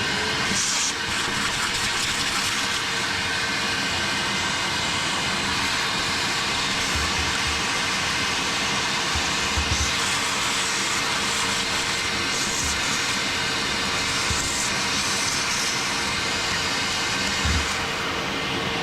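Vacuum cleaner running steadily with a constant whine, just spun up, cleaning caked grass and debris out of a lawn mower engine. A few brief low bumps come through as the nozzle is worked around the engine.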